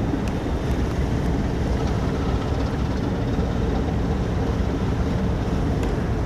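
Steady low rumble with wind buffeting the microphone, and a few faint ticks.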